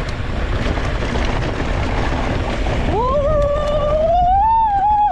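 Wind buffeting the microphone of a moving mountain bike. About three seconds in, a rider lets out one long, held 'woooo' whoop that rises slowly in pitch.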